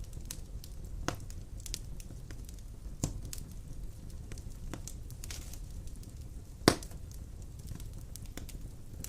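Wood fire of large logs burning in a fireplace: a steady low rumble of flames with scattered sharp crackles and pops, one loud pop about two thirds of the way through.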